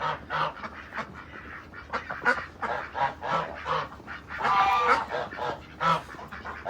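A group of domestic waterfowl calling: a quick run of short, repeated calls, with one longer, louder call a bit past halfway.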